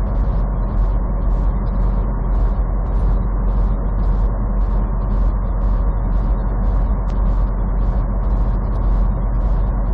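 Steady drone of a semi truck's engine and road noise inside the cab while driving, with a faint, regular ticking about three times a second.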